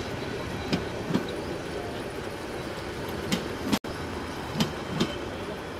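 Passenger coaches and a luggage van of a departing train rolling past at low speed: a steady rumble of wheels on rail, broken by three pairs of sharp clacks as each bogie's two axles cross a rail joint. The sound drops out for an instant near the middle.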